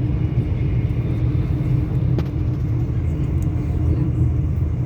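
Steady low rumble of a moving passenger train heard from inside the carriage, with a faint steady hum and a single click about two seconds in.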